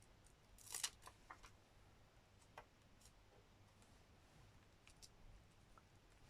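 Faint tabletop crafting noises: a short scratchy rustle near the start, then a few scattered light clicks.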